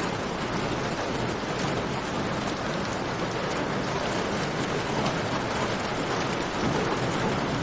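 Steady rain mixed with a crackling campfire: a dense, even rushing hiss scattered with small sharp pops and ticks.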